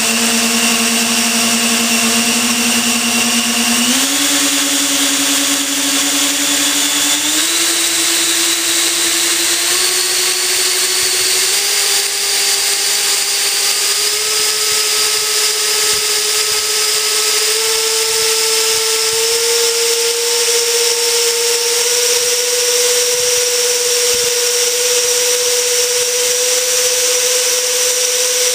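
Two electric ducted fans, engines 1 and 3 of a radio-controlled Lockheed L-1011 TriStar model, running up under throttle on the ground with the failed tail-mounted No. 2 fan shut down. A loud whine climbs in pitch in a series of steps as the throttle is raised, then holds steady for the last several seconds.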